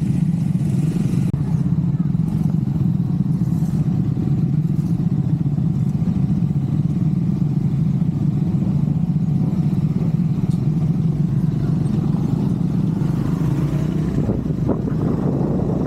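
Triumph Scrambler 400X's single-cylinder engine running at a steady speed while riding, a constant drone with wind and road noise on the helmet-mounted camera.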